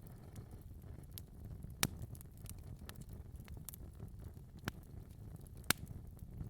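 Wood fire crackling in a fireplace: a steady low rumble of the flames with scattered small crackles, and two sharp pops, about two seconds in and near the end.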